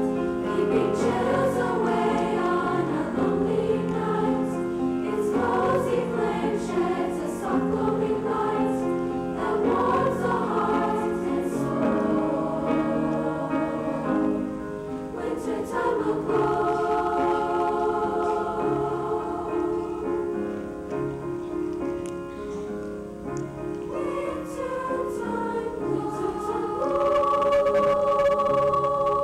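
Junior high school choir singing in harmony, moving through sustained chords and swelling to a louder held chord near the end.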